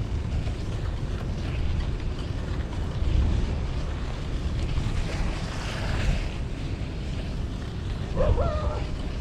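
Wind buffeting the microphone on a moving bicycle: a steady low rumble, with a brief wavering tone about eight seconds in.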